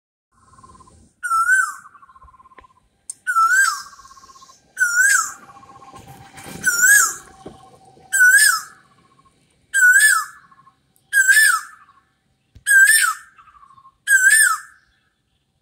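A bird calling over and over, about ten times roughly a second and a half apart; each call is a short whistled note that slides down into a brief wavering trill.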